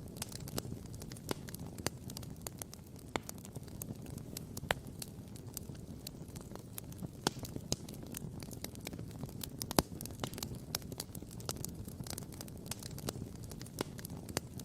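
Wood campfire crackling, with many irregular sharp pops and snaps over a low steady rumble; one pop near ten seconds in is louder than the rest.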